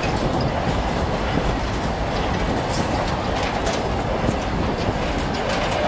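Indian Railways goods train of covered boxcar wagons passing close at speed: a steady loud rumble of wagon wheels on the rails, with irregular sharp clacks and knocks over the top.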